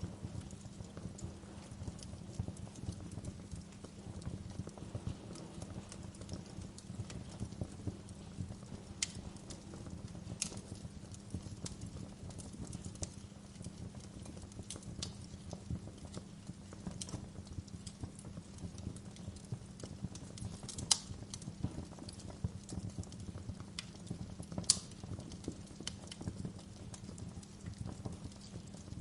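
Wood fire in a fireplace crackling steadily over a low rumble, with a few sharper pops standing out, the loudest about twenty-one and twenty-five seconds in.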